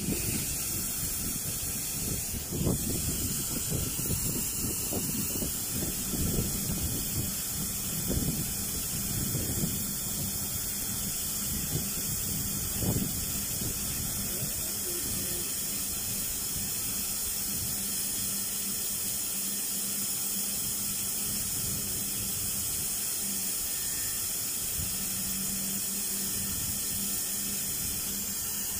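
Steady hiss from a stationary electric or diesel multiple-unit train standing coupled at the platform, with a steady low hum underneath from a couple of seconds in. Uneven low rumbles come and go in the first half.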